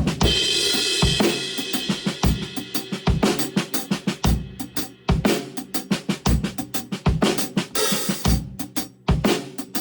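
Drum kit played alone, the drum part of a song with no other instruments: a crash cymbal at the start rings for about two seconds over a steady groove of kick drum, snare and hi-hat, and a second cymbal crash comes near the end.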